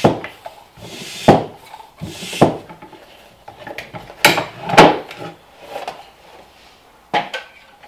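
Irregular knocks, rubbing and short rushing bursts, about six in all, from handling a dirt-bike inner tube and tire while working on the wheel.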